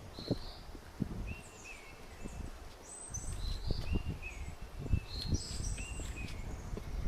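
Footsteps walking along a forest trail, a soft uneven thud every half second or so. Over them, birds sing and call with short, high whistled notes that repeat throughout.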